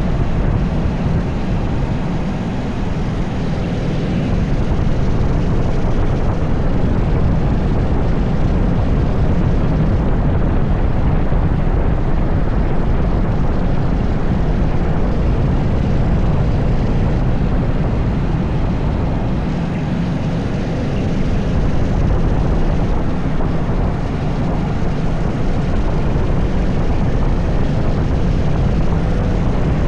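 80cc racing kart engine running at speed with wind rushing past the on-board microphone, a steady loud noise that dips a little a few times.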